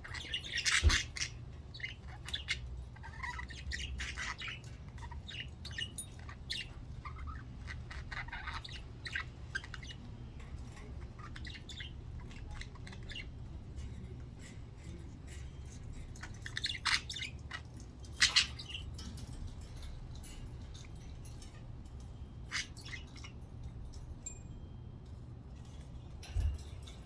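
Budgerigars chirping and chattering in short calls throughout, with a few louder squawks near the start and twice past the middle.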